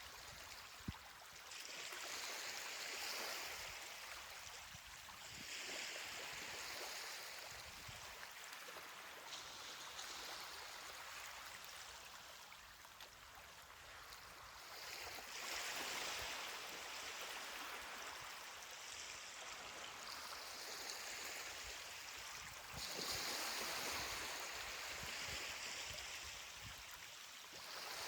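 Small ocean waves washing onto a beach: a soft steady hiss that swells about four times as waves come in, with a single faint click about a second in.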